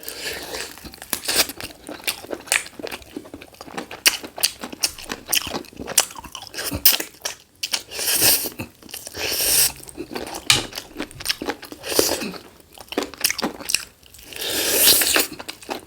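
Close-up sounds of a person biting and chewing a black-chicken lollipop, with crunching and wet mouth clicks. Two longer noisy stretches of chewing come about halfway through and near the end.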